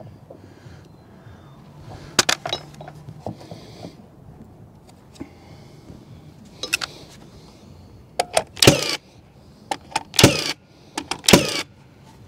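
Sharp knocks with a metallic ring from framing work on a wooden deck. There is a single knock about two seconds in and another near the middle, then a tighter run of four or five louder strikes in the second half.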